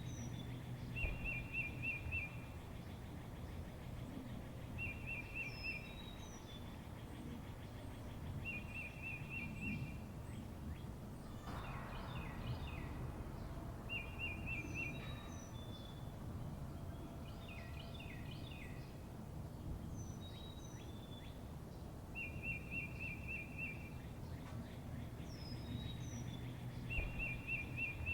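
Birds singing: one bird repeats a short, high trilled phrase every few seconds while others add scattered chirps, over a steady low background rumble.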